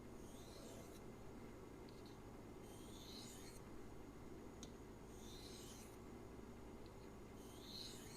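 Maxamet knife blade drawn across a sharpening surface in four faint scraping strokes, about one every two and a half seconds, with a few small clicks between them.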